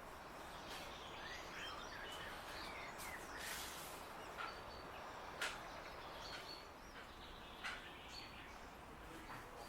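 Faint steady background hiss with small birds chirping on and off, and three short sharp knocks, the loudest about halfway through.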